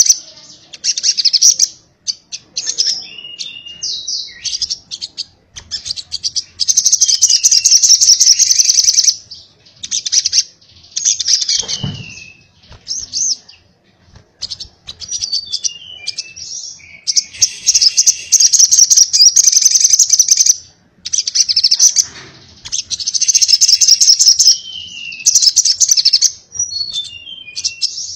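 Little spiderhunter (sogok ontong) singing its rapid 'konslet' song: repeated bouts of very fast, high chattering trills, each lasting a second or three, with short falling whistled notes between the bouts.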